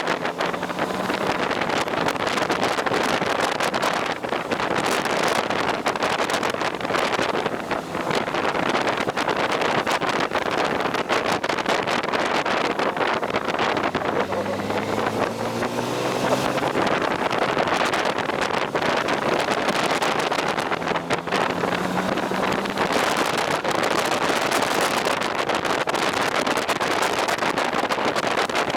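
Riding a motorcycle: steady wind rush over the microphone, with the engine note showing through and rising and falling about halfway through and again a little later.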